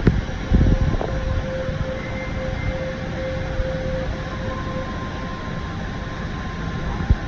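Steady rush of the Rain Vortex, a tall indoor waterfall, with a few faint held tones over it. There are low knocks about half a second to a second in and again near the end.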